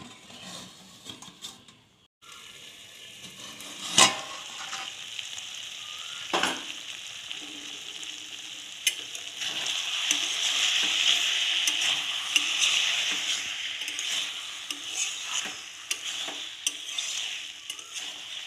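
Taro-stolon and potato curry sizzling in a wok while a spatula stirs it, with the spatula knocking and scraping against the pan; the loudest knock comes about four seconds in. The sizzling swells in the middle as the curry is turned.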